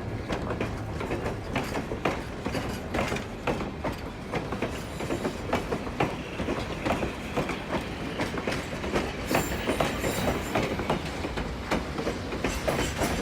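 Excursion train rolling past, its wheels giving a steady clickety-clack on the rails over a low rumble. Brief high-pitched wheel squeals come in from about nine seconds and again near the end.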